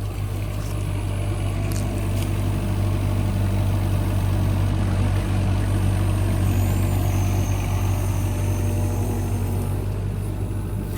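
Excavator engine running steadily with a low, even hum while digging out a pond spillway.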